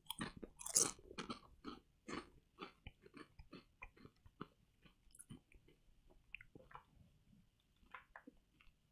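A person crunching and chewing potato chips: a quick run of sharp crunches, loudest in the first second or two, then sparser and fainter as the chips are chewed down.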